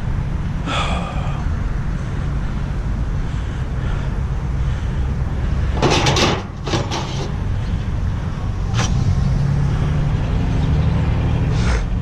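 Truck on the road: a steady low engine and road rumble, broken by a few short sharp rattles or knocks, the loudest about six seconds in.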